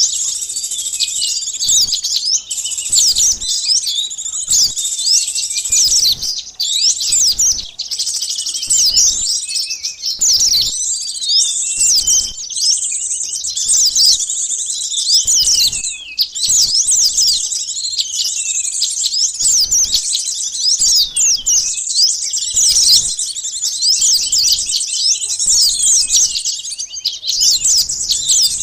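A dense, unbroken chorus of quick, high chirps and twitters from many small birds, several overlapping at once. It is a bird-lure recording of sunbirds and other small birds.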